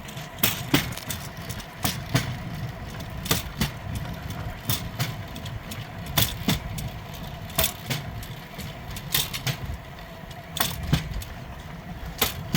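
Rail bike's steel wheels rolling along the track with a steady low rumble, clicking in quick pairs about every second and a half as the wheels cross rail joints.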